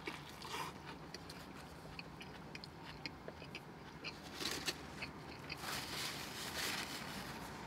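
Close-up biting and chewing of a mouthful of sub sandwich (soft bun, lettuce, deli meat): faint small wet clicks and crunches from a closed mouth. Near the end, a soft rustle of a paper napkin wiping the mouth.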